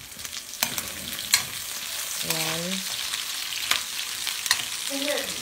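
Browned pork pieces and garlic sizzling in oil in a steel wok, stirred with a metal spatula that clicks and scrapes against the pan several times.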